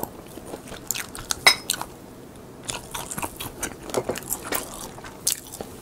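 Close-miked crunching and chewing of crisp seasoned laver (gim) sheets, a run of sharp crackles with a short pause about two seconds in.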